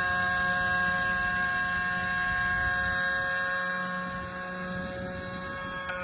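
Electric motor and propeller of an RC airboat running on a 4-cell LiPo: a steady whine with several fixed tones that eases off slightly about four seconds in. A short click near the end.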